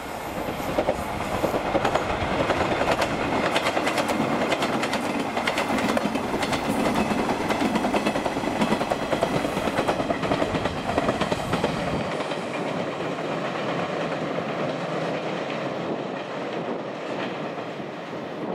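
Four-car JR West 381 series limited express electric train passing on a curve, its wheels clacking rhythmically over the rail joints. The clatter eases about twelve seconds in and the train's sound fades as it moves away.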